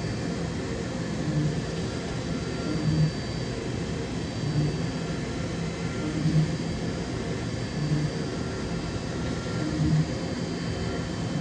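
DVF 5000 five-axis CNC machining center running a cut: steady machining noise that swells in load about every second and a half as the tool repeats its path.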